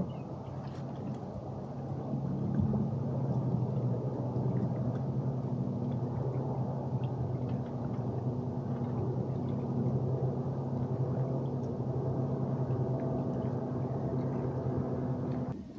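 Boat motor running steadily with a low, even hum that cuts off suddenly near the end.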